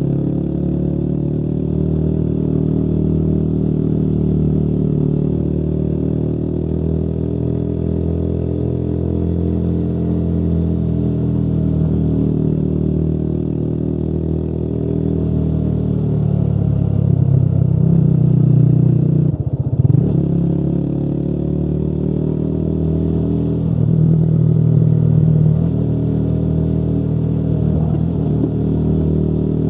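Motorcycle engine running under way, its pitch rising and falling with the throttle. It climbs and gets louder, then briefly drops away about two-thirds through.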